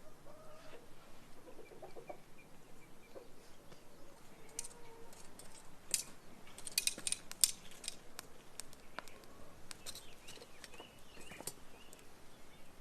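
Chickens clucking faintly in the background, with a run of sharp clicks and taps through the middle, most of them bunched together near the middle.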